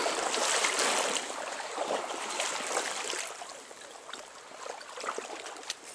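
Shallow river water rushing and trickling, with small splashes. It is louder for the first three seconds or so, then softer.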